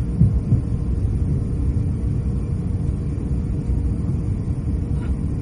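Steady low rumble inside the cabin of an Airbus A350-900 rolling along the taxiway after landing, with a couple of brief low thumps near the start.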